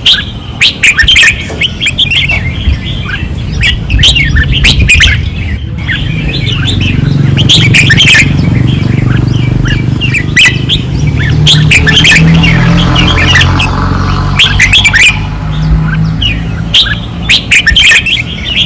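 Caged red-whiskered bulbuls singing vigorously, short chirping phrases following one another in quick succession over a steady low rumble.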